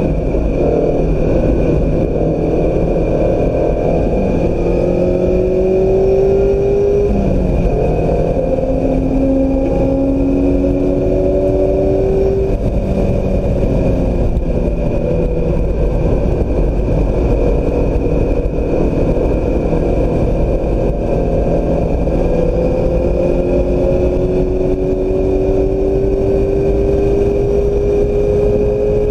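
2016 Mazda MX-5 Miata's 2.0-litre four-cylinder engine accelerating hard on track. Its pitch climbs and drops back at several upshifts, over steady wind and road noise.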